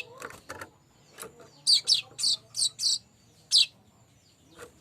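Streaked weaver singing: a quick series of about six sharp, high notes, each sweeping downward, between about two and three and a half seconds in, after a few softer chattering notes.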